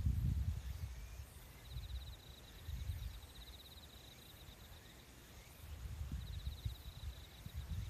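Nature-sound recording of an insect, cricket-like, trilling in a high, rapidly pulsed song that stops and restarts in runs of a second or so, over a low rumble that swells and fades.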